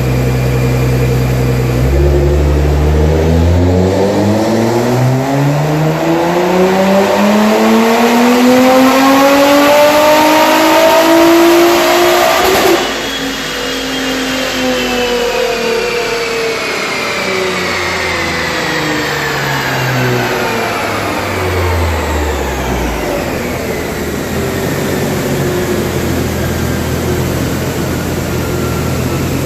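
Nissan GT-R R35's twin-turbo 3.8-litre V6, on stock turbos and tuned for 610 hp on E85 at 18 psi boost, making a full-throttle dyno pull. The revs climb steadily for about ten seconds, then break off suddenly as the throttle closes. The engine then winds down over about ten seconds and settles to a steady idle.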